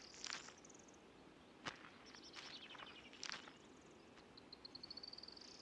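Faint outdoor ambience with small birds calling: short high chirps and trills, and near the end a quick run of high notes rising in pitch. A sharp click sounds about a second and a half in.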